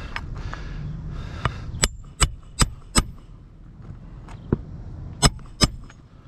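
Hammer driving a roofing nail into an asphalt shingle: a run of four sharp, ringing strikes, then two more a couple of seconds later, with a few lighter taps between.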